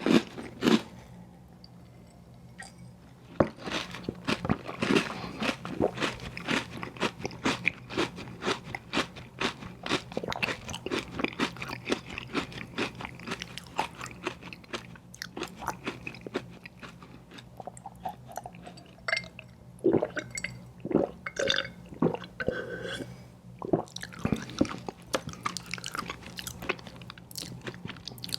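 Close-miked eating of an ice cream sandwich: crunching bites and steady chewing, with a short pause about two seconds in, over a faint low hum.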